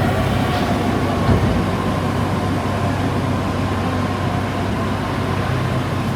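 Metro train running, heard from inside the passenger car: a steady rumble with a low hum and a faint high whine.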